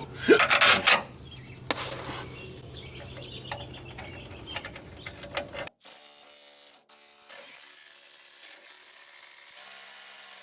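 Metal hand tools clinking and scraping, with short ratcheting, during work on the torque converter bolts at the flexplate. The loudest clatter comes in the first second; the sound cuts off abruptly about six seconds in, leaving only a faint background.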